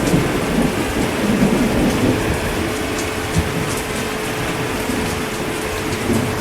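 Heavy rain falling steadily, with scattered drops ticking over it. Low rumbles of thunder swell and fade, mostly in the first half, and a faint steady hum runs underneath.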